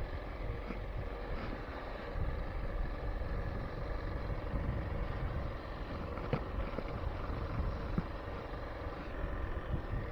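Trailmaster MB200 mini bike's small single-cylinder four-stroke engine running at a steady cruising speed while riding, with wind rumble on the microphone.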